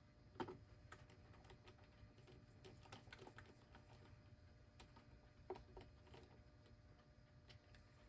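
Faint, irregular clicks and light knocks of a clock's back plate and its small screws being handled and fitted onto a wooden case, with a sharper knock about half a second in and another about five and a half seconds in.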